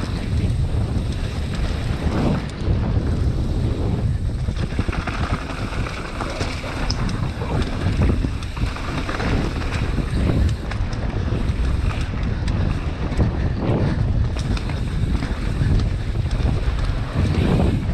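Wind buffeting the camera microphone during a mountain-bike descent: a loud, rough rumble that swells and dips, with scattered knocks and rattles from the bike over rough ground.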